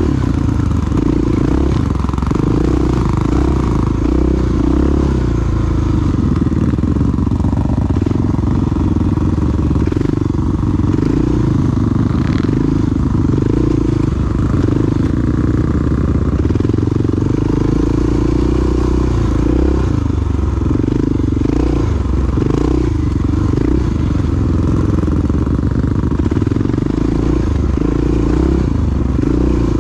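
Big single-cylinder four-stroke dual-sport motorcycle engine running on the move, its note rising and falling with the throttle.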